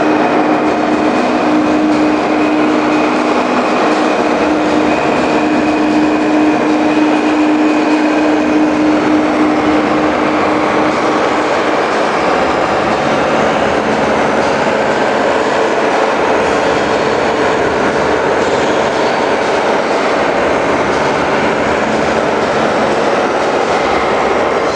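Steady, loud engine noise from a vehicle, with a humming tone that fades out about eleven seconds in.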